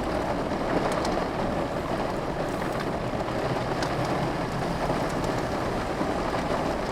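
Steady rain falling, heard from inside a car with its window open, with a few single drops ticking.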